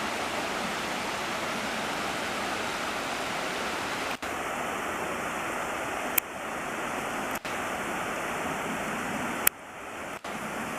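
Steady rush of flowing stream water, broken a few times by sudden brief dropouts and sharp clicks.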